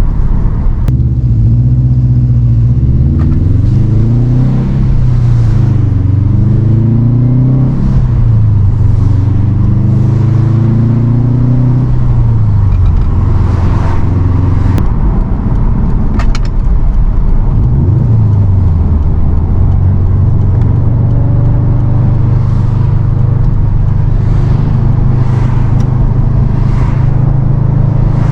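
2018 Subaru WRX STI Type RA's turbocharged flat-four engine under way, its note climbing and dropping back several times over the first dozen seconds. Near the middle it dips and climbs once more, then runs steadily at cruising speed, with road noise beneath it.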